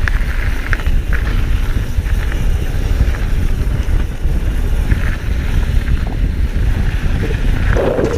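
Mountain bike rolling downhill over loose, gravelly trail, with wind rumbling on the microphone and scattered clicks and rattles from tyres and bike.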